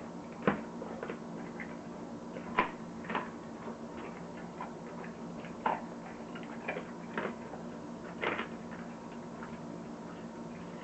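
German shepherd chewing and crunching raw chicken quarters, the bones cracking in irregular crunches, with about six louder cracks spread through.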